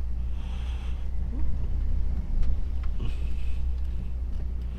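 Truck diesel engine running at low revs, heard as a steady low rumble inside the cab, with two short hissing swishes over it.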